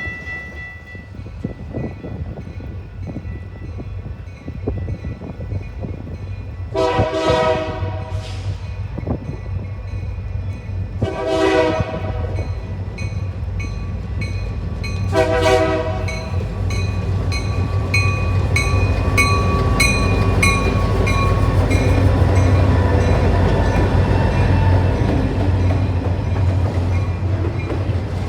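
Diesel locomotive horn sounding three blasts, the first two longer and the last short, as a train approaches. The train then passes with a loud engine rumble that builds, and wheels clicking rapidly over the rail joints.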